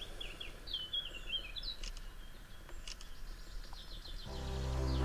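A small songbird sings a short warbling phrase over faint outdoor ambience, with a few faint chirps after it. Background music fades in about a second before the end.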